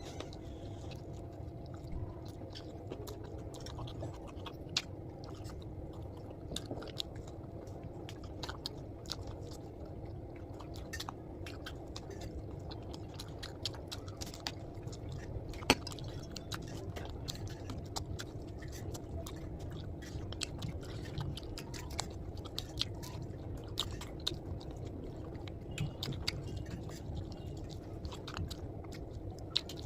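Close-miked chewing and mouth sounds of a person eating, with many small sharp crunchy clicks and one louder click about halfway through. A steady low hum runs underneath.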